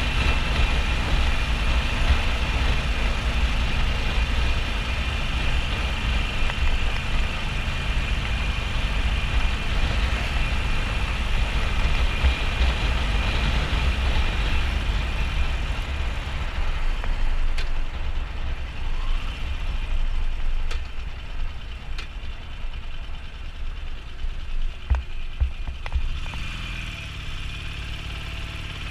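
Harley-Davidson Sportster XL1200N's air-cooled V-twin engine running under way, with wind rushing over the helmet-camera microphone. It gets quieter in the second half and settles into a steadier engine note near the end.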